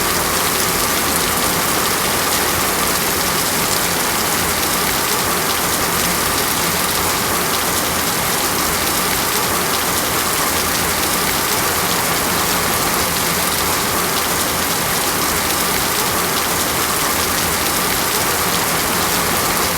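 Steady rain falling, an even hiss of many drops hitting a surface, with no pauses or changes.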